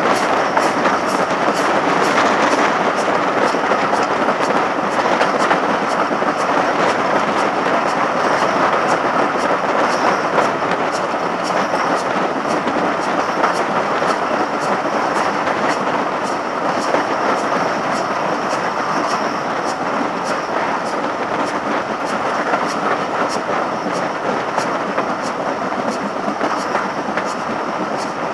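Steam-hauled passenger train running at speed, heard from an open coach window: a steady rush of wheel and wind noise with a fast, regular run of clicks throughout.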